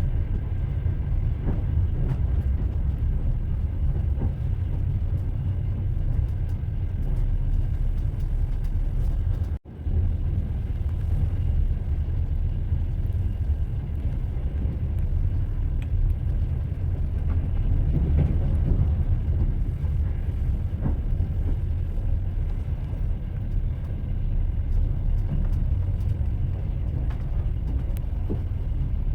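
Train wheels running on the rails: a steady low rumble with faint clicks, broken by a very short gap about ten seconds in.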